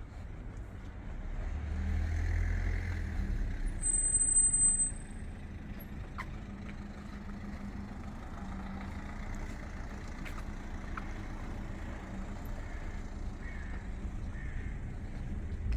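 Street traffic with a heavy vehicle passing close by: a low rumble builds, then a brief, loud, high-pitched squeal about four seconds in, followed by steady traffic noise.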